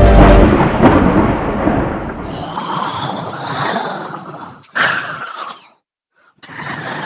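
A loud, deep boom that rolls away like thunder, its rumble fading over a few seconds. Then come ragged, heavy breaths in short bursts with brief silences between.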